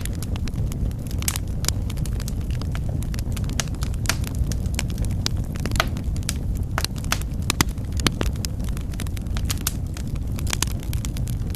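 Wood fire burning in a fireplace: a steady low rumble of flame with many sharp, irregular crackles and pops.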